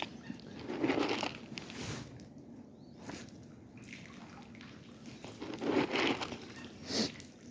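Water sloshing and splashing in a small duck pond as ducks move about in it, with louder splashes about a second in and again near the end.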